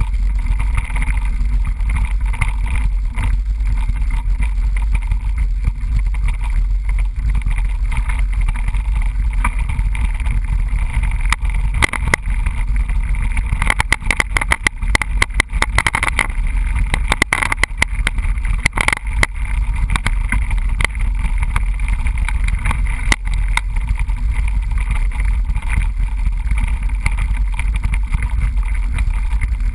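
Mountain bike riding a trail, picked up by a GoPro camera: a steady low rumble of wind and tyres, with a run of rattling knocks from rough ground about halfway through.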